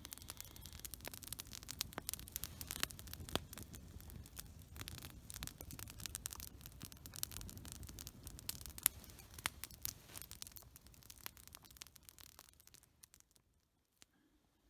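Dense, irregular crackling and rustling over a low rumble, stopping about 13 seconds in.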